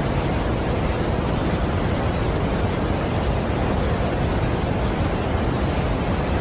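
Steady, unbroken rush of a large waterfall, a deep, even wall of falling water, strongest in the low end.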